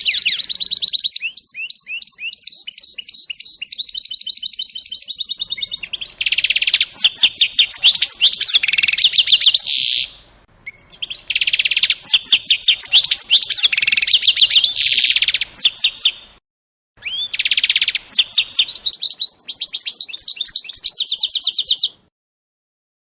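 A songbird singing long runs of rapid trills and chirps, high-pitched and loud, with two short pauses; the song cuts off suddenly near the end.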